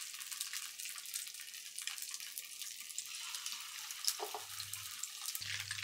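Chicken skewers shallow-frying in hot oil on low heat: a steady soft sizzle with scattered crackles and pops.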